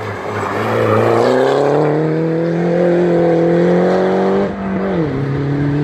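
Red Mini Cooper hill-climb car's engine under hard acceleration out of a hairpin. The pitch climbs steadily, then drops quickly once about four and a half seconds in as the car shifts up, and carries on pulling.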